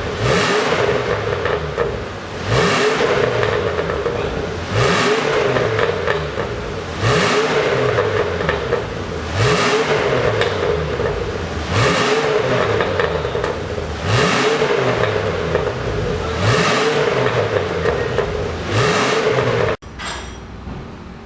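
Ford F-350 pickup engine revved again and again through an aftermarket dual variable (valved) exhaust, a quick blip rising and falling about every two seconds, nine times over. Near the end it cuts off abruptly to a quieter sound.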